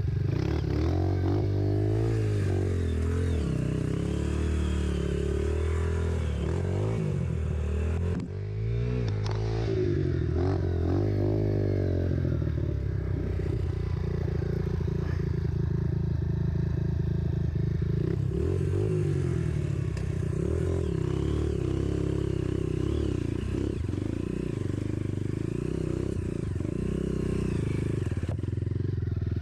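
Single-cylinder four-stroke trail motorcycle engine running under changing throttle, its pitch rising and falling again and again, with a brief drop about eight seconds in.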